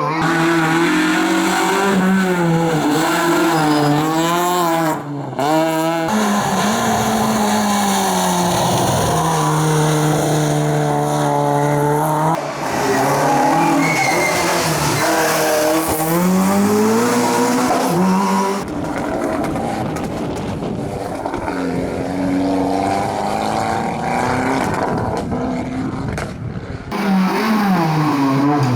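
Historic rally cars at full attack on a stage, one after another: engines revving hard, the pitch climbing and dropping again and again as the drivers shift up and down through the gears.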